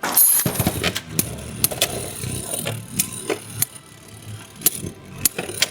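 Two Beyblades launched into a plastic stadium at the start, then spinning and clashing: a continuous whirring rattle with many sharp clicks as the tops collide.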